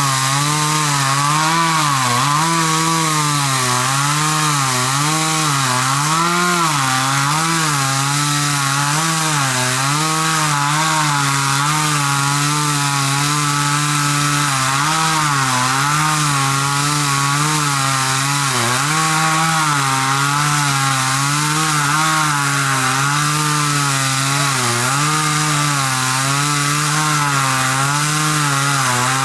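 Two-stroke chainsaw running at high speed while cutting through a xà cừ (khaya) tree, its engine pitch dipping and recovering over and over as the chain bites into the wood.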